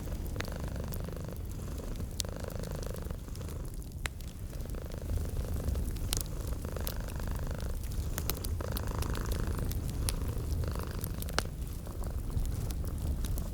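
A domestic cat purring steadily, its purr swelling and easing in cycles of about a second with each breath. Over it a wood fire crackles with scattered sharp pops.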